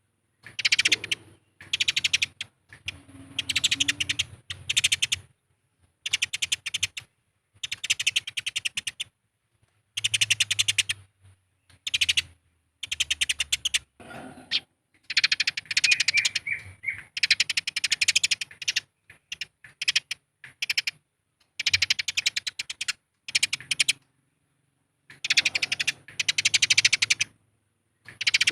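Eurasian tree sparrows giving rapid, dry chattering fight calls in repeated bursts of about a second each, with short pauses between them.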